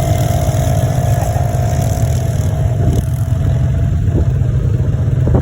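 Quad bike engine running steadily, under a heavy low rumble, with a thin steady whine that fades out about halfway through.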